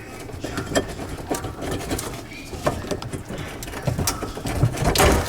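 Irregular clicks, knocks and rustling from hands and tools working on an under-sink garbage disposal and its fittings, with a heavier knock near the end.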